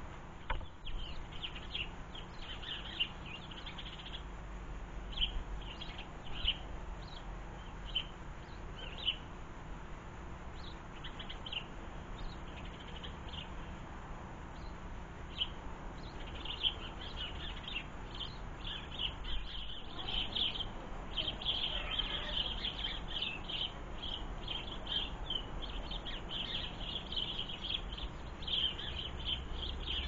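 Small garden birds chirping: short, high-pitched calls, scattered at first and coming almost without a break through the second half.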